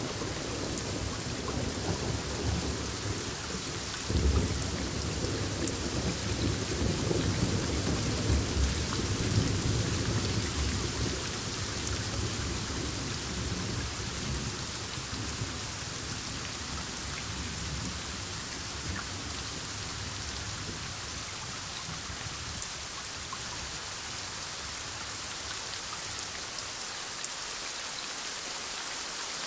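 Heavy rain falling steadily, with a roll of thunder that starts abruptly about four seconds in, rumbles low for several seconds and fades out, leaving only the rain.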